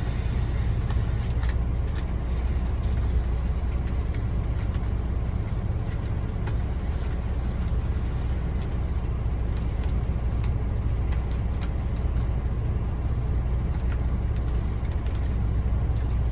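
Steady low drone of an idling truck diesel engine, heard from inside the cab, with a few faint clicks over it.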